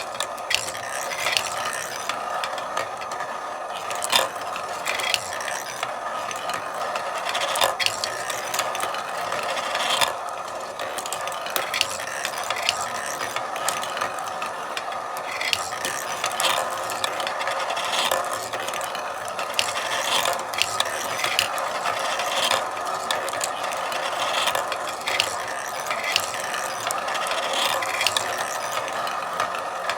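Marbles rolling continuously along a marble run track, a steady rattling rumble broken by frequent sharp clicks as marbles knock against the track and each other.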